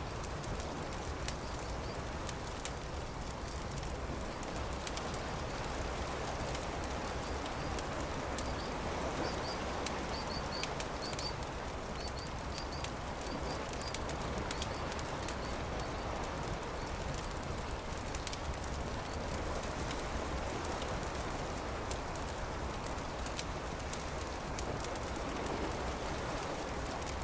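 Campfire crackling, with many small sharp pops over a steady rushing noise. A few faint high bird chirps come near the middle.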